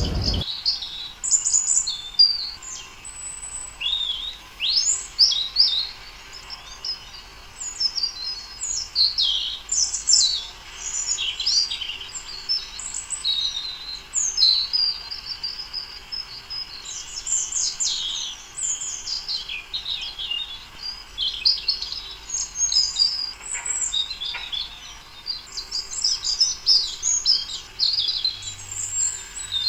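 Small songbirds chirping and twittering, a dense run of quick, high notes and short trills with brief gaps.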